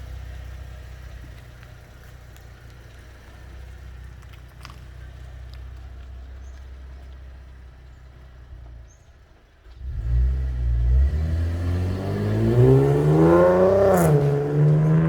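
Exhaust of a 2017 Holden Calais with a freshly changed aftermarket exhaust: a low steady rumble, then about ten seconds in a sudden loud burst as the car accelerates hard, the pitch climbing for several seconds before peaking and dropping near the end. The owner calls it a sweet noise.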